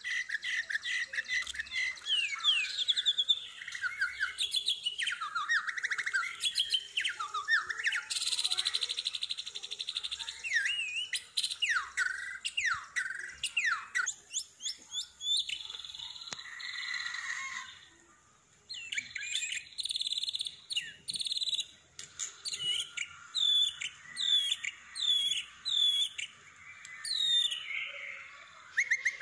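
A songbird singing a fast, varied song of rapid chirps, buzzy trills and sharp down-slurred whistles in quick-fire bursts, the 'tembakan' style prized by Indonesian songbird keepers. The song breaks off briefly a little past halfway.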